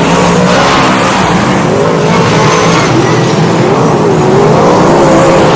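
360 sprint car V8 engines racing, their pitch rising and falling as the throttle comes on and off.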